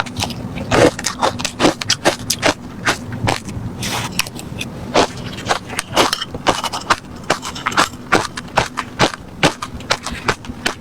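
Ice being chewed close to the microphone: a fast, irregular run of sharp crunches, several a second, over a faint steady hum.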